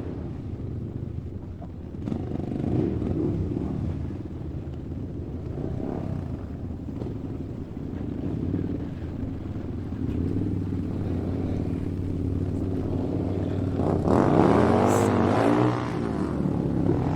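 A motor vehicle engine running steadily. About fourteen seconds in it grows louder for a couple of seconds, rising and then falling in pitch.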